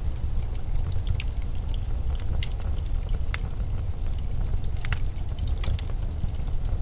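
Blizzard wind as a steady low rumble that flutters in strength, with many small sharp crackles scattered through it.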